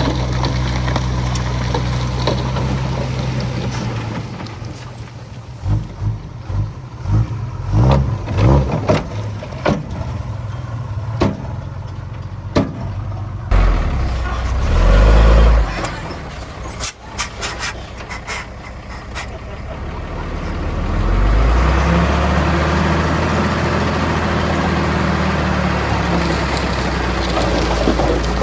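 Heavy diesel earthmoving machinery at work. An engine runs steadily, then comes a stretch of irregular clattering knocks and a brief loud low rumble, and the engine revs up and holds louder near the end.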